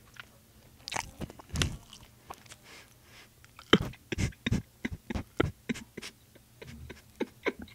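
Close-miked chewing of a buttered corned beef sandwich: a string of irregular mouth clicks.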